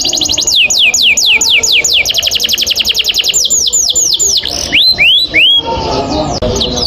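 Domestic canary singing a long rolling song: rapid trills alternating with runs of quick notes that sweep down in pitch, several a second, with a few slower drooping notes about two-thirds of the way through.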